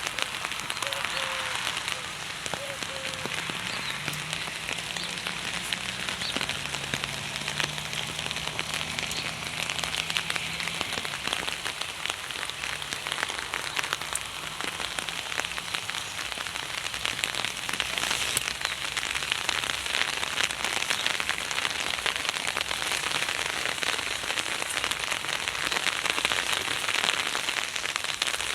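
Heavy rain falling, a dense steady patter of drops hitting a surface.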